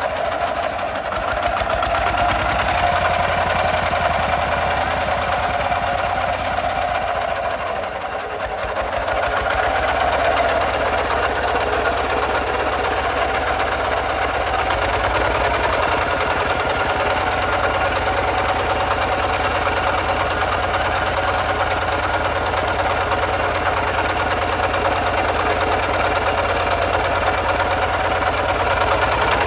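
Kubota RT 140 DI single-cylinder diesel engine running with a rapid, even chug. It dips briefly about eight seconds in, then picks up again and runs steadily.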